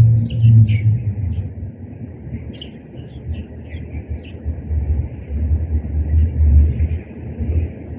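Small birds chirping in quick, short calls, thickest in the first second and again about three seconds in, fainter near the end. A steady low rumble runs underneath and is the loudest sound.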